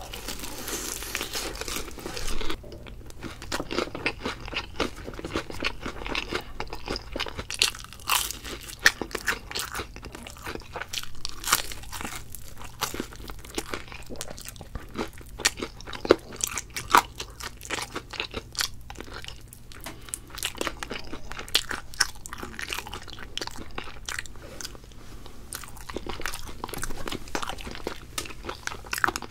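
Close-miked crunching and chewing of thick-battered BHC Poteking potato fried chicken: a steady run of irregular crisp crunches as the batter is bitten and chewed.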